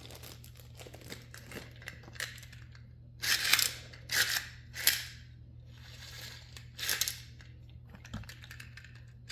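Toy packaging being opened and handled: about five short bursts of crinkling and tearing in the middle of the stretch, over a faint steady low hum.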